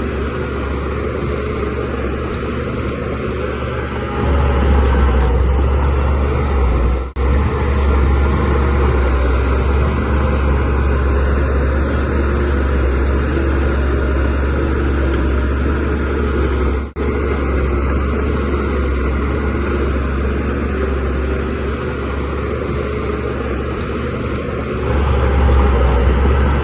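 Shantui DH17C3 Pro bulldozer's diesel engine running under load while the dozer pushes soil, rising louder for a few seconds a few seconds in and again near the end. The sound drops out for an instant twice.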